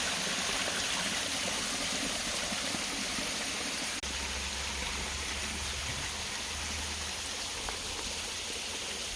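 Waterfall running: a steady, even rush of falling water. A low rumble joins about four seconds in.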